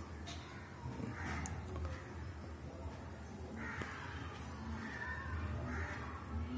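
Several short, harsh bird calls a second or two apart, over a low steady hum.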